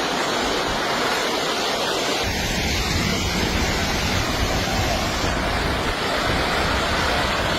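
Steady rushing noise of fast-flowing floodwater, with a deeper low rumble filling in about two seconds in.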